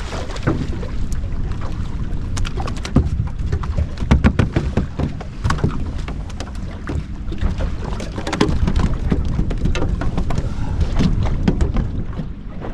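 Wind rumbling on the microphone and water slapping around a small fishing boat, with many sharp splashes and knocks as a hooked tailor is played and brought in.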